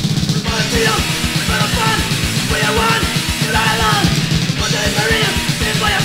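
Hardcore punk band music with a fast drum beat of about five hits a second under distorted rock instruments, the full band coming in loud right at the start.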